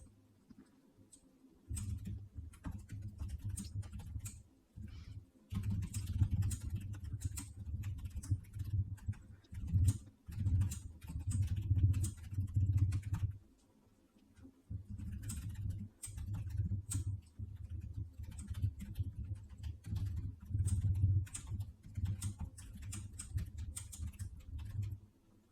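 Typing on a computer keyboard in irregular runs of keystrokes, each press a click with a low thud, pausing briefly near the start and about halfway through.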